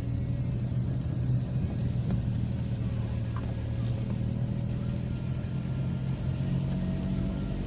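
Car engine and road noise heard from inside a moving car: a steady low hum.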